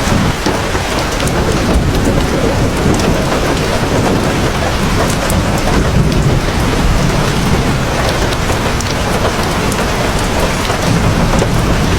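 Heavy rain pouring steadily, with many individual drops ticking through it and a low rumble of thunder underneath.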